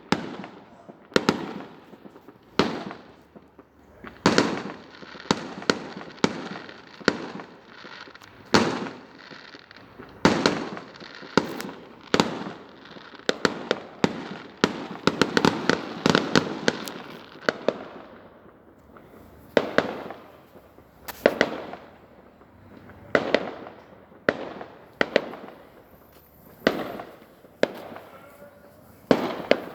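Fireworks display: aerial shells bursting with sharp bangs every second or two, each trailing off in echo and crackle, with a dense stretch of overlapping bursts and crackling around the middle.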